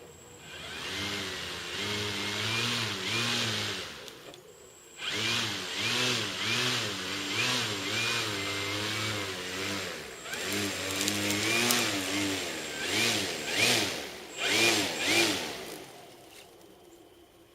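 Electric outrunner motor spinning the propeller of a 1/5.3-scale Airco DH.2 model plane, throttled up and down in quick repeated surges, its pitch rising and falling. It cuts out briefly about four seconds in, starts again, and stops near the end.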